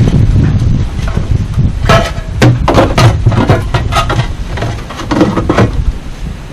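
Wind buffeting the microphone with a low rumble, and from about two seconds in a quick run of knocks and clatters, as of things being handled and set down.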